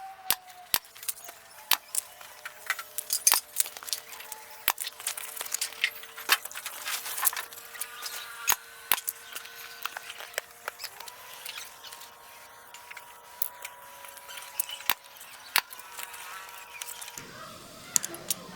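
Irregular sharp clicks and taps of handwork on small wooden or bamboo parts, over a faint steady tone that stops near the end.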